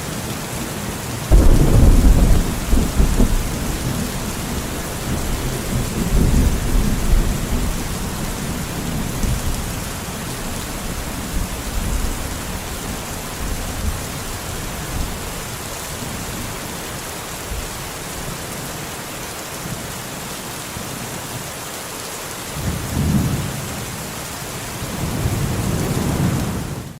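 Steady rain with thunder: a sudden loud low rumble about a second in, a second rumble around six seconds, and two more near the end.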